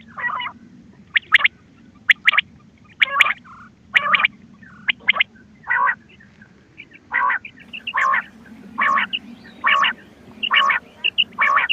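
Quail calling from a hunting call recording: a steady series of short, rough calls about one a second. Quick high chirps fill the gaps between them in the second half.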